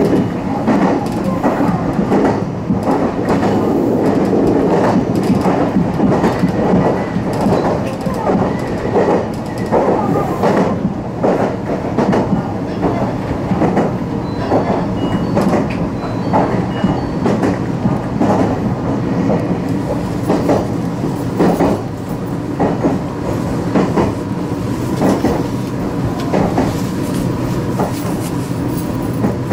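Electric train running on the rails, heard from the driver's cab: a steady rumble of wheels on the track with frequent clicks over rail joints.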